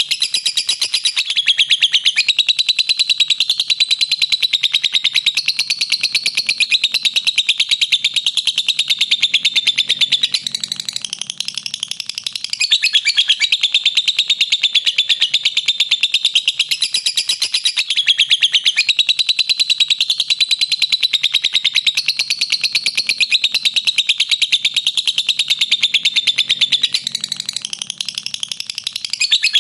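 Lovebird giving its long, rapid, high-pitched chattering trill (ngekek), running almost without pause and easing off briefly about ten seconds in and again near the end.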